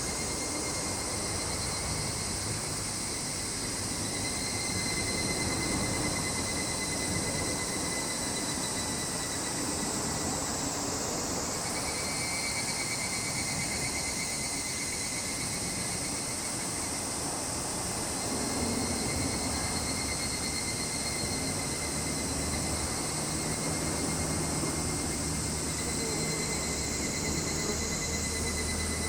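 Continuous chorus of summer insects. It holds a steady high tone and an even higher buzz that slowly sinks in pitch and then snaps back up, twice. A low rumble runs underneath.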